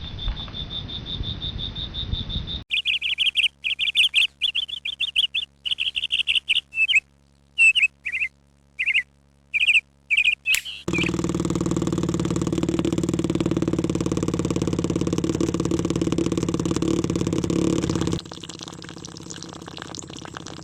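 A steady high whistle-like tone, then a run of rapid bird-like chirps broken by short gaps, then a steady hum lasting about seven seconds that drops to a quieter level near the end.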